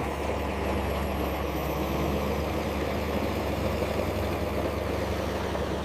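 A heavy machine's engine running steadily at a constant pitch, with a strong low rumble.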